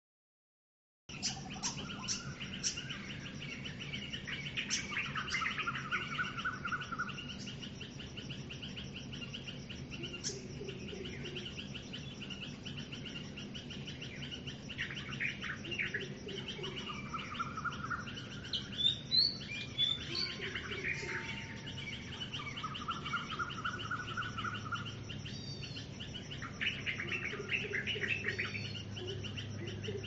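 A chorus of several wild birds chirping and singing, starting about a second in. It mixes quick high chirps and trills with a lower trilled phrase that repeats every few seconds, over a faint steady hiss.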